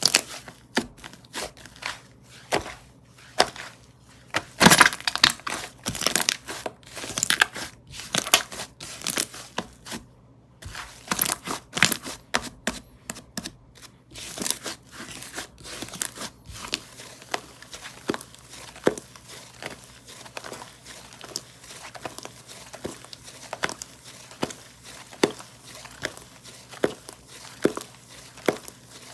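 Slime being squished and stretched by hand, making quick crackling and popping clicks. The clicks come thick and loud through the first half, then grow sparser and softer.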